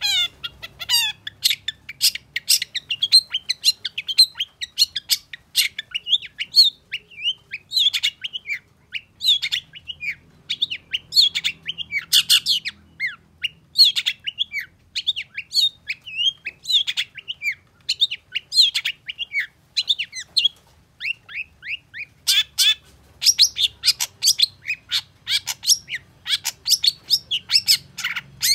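Long-tailed shrike (cendet) singing a fast, harsh chattering song of rapid sharp notes, many sweeping downward. There is a brief pause a little over two-thirds of the way through before the song picks up again.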